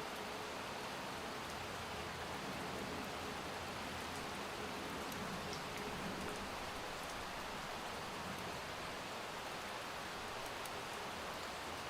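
Steady rain falling: an even hiss with a few faint, light ticks of drops.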